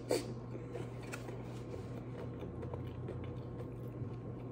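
Quiet eating sounds: faint chewing and small clicks as food is handled and dipped, with a brief louder sound right at the start, over a steady low hum.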